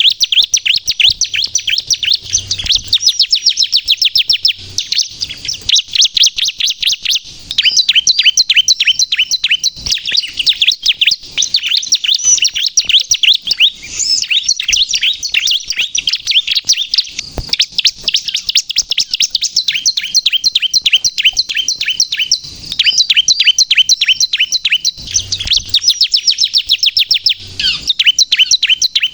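Bar-winged prinia (ciblek) singing vigorously: long runs of rapid, high, repeated chirping notes that break off briefly every few seconds and start again.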